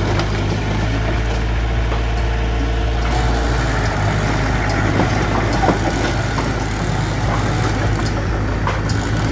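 Mitsubishi BD2F bulldozer's diesel engine running steadily, with scattered short clanks from about four seconds in.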